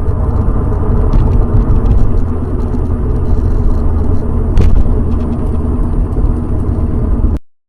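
Loud, steady rumble of a moving vehicle's engine and road noise picked up by a dashcam. It cuts off suddenly near the end.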